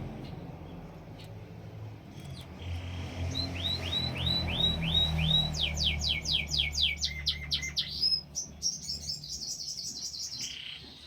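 Canary singing in tours of repeated syllables: a run of about six down-slurred whistles, then a fast series of steep downward sweeps, then a high rapid trill. A low rumble runs beneath the song.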